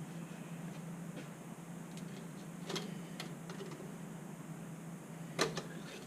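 A few light clicks and knocks of handling, the loudest about five and a half seconds in, over a steady low hum.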